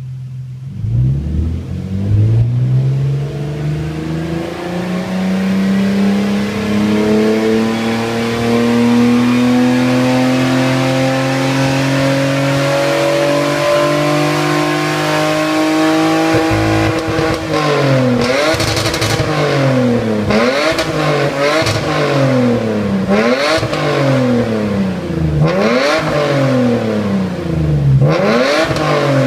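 Toyota Aristo's 2JZ-GE 3.0-litre straight-six running through an aftermarket 5ZIGEN exhaust. The exhaust note climbs steadily in pitch over about fifteen seconds. Then, from about seventeen seconds in, the revs drop and rise again repeatedly, about every second or two.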